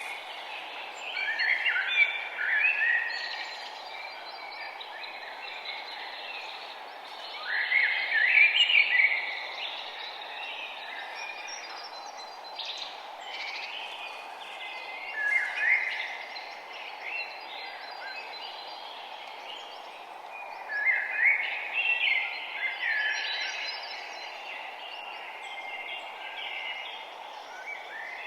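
Songbirds singing in short, lively phrases every several seconds, the loudest about eight seconds in, over a steady low background hiss.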